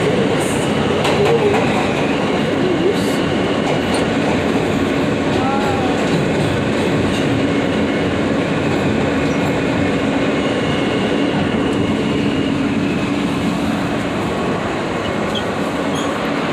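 New York City subway F train running, a steady rumble and wheel-on-rail noise with a steady low hum through the middle.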